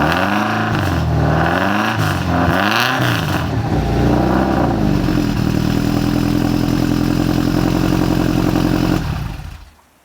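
Subaru Legacy GT's turbocharged flat-four, running cold through equal-length headers, a catless up-pipe and downpipe and a cat-back exhaust. It is blipped a few times, each rev rising and falling back, then idles steadily, and the sound cuts off near the end.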